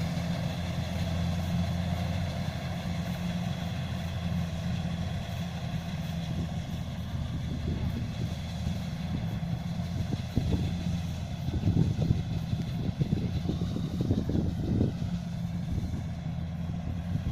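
Kubota DC-70 rice combine harvester's diesel engine running steadily, with irregular clattering and knocking from about halfway through.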